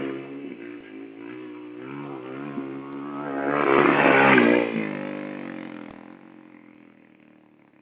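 Motocross dirt bike engine revving up and down with the throttle, growing louder to a peak about four seconds in, then fading away.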